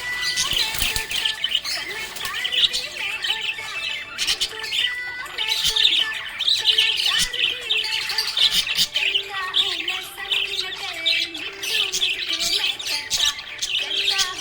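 Small pet parrots chirping and chattering continuously, a dense run of high chirps and squawks.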